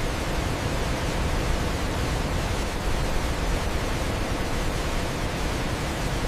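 Waterfall: water falling and splashing heavily, a steady, even rush.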